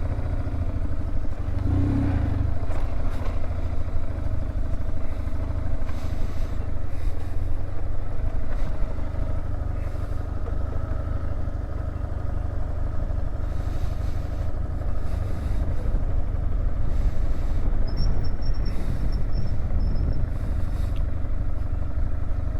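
BMW R1150GSA motorcycle's boxer-twin engine running steadily, with a few brief knocks and rattles along the way.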